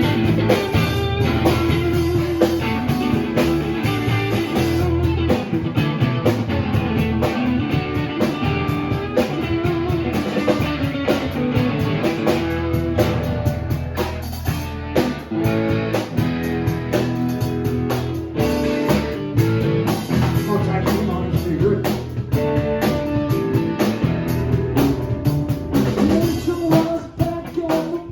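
Live rock band playing: guitar over bass and a drum kit keeping a steady beat.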